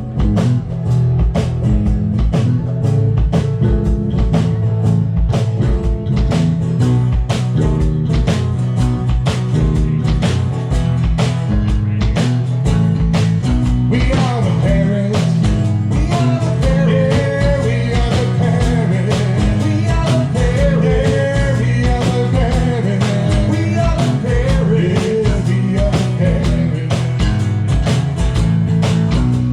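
Live band playing an upbeat song: a steady drum beat with bass and guitar, and a wavering lead melody line coming in about halfway.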